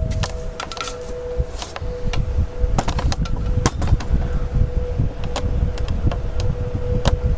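Corvair box fan running on low: a steady motor hum and air rumble with scattered sharp clicks and ticks. These are the noisy bearings, which the owner thinks might be shot a little.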